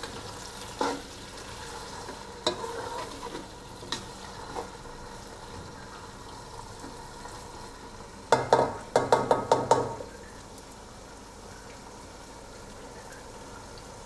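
Chopped tomatoes, onions and ginger-garlic paste frying in hot oil, a steady sizzle: the bhunai stage of the masala. A wooden spatula stirs them, knocking against the pot a few times, with a quick run of loud scrapes and knocks about eight seconds in, after which only the sizzle is left.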